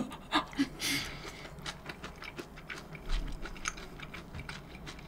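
A person eating close to the microphone: soft chewing with scattered small mouth clicks and taps, and a brief hiss about a second in.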